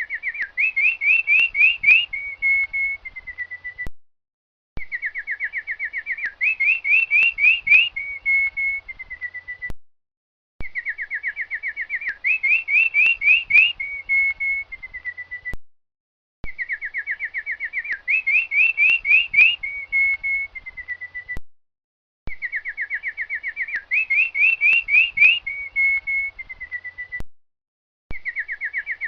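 A songbird singing the same phrase over and over, about every six seconds: a fast trill, then a run of rising notes, then a few short falling whistles, with a brief pause between phrases.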